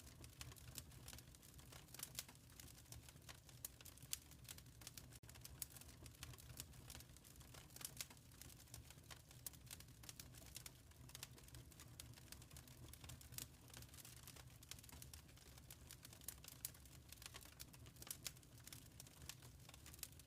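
Wood fire in a fireplace crackling quietly, with irregular small pops and snaps over a low steady rumble.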